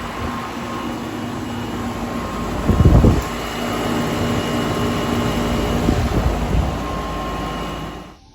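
2005 Goodman 1.5-ton heat pump outdoor unit running, a steady compressor hum under the whoosh of its condenser fan. A brief louder rumble comes about three seconds in, and the sound cuts off just before the end.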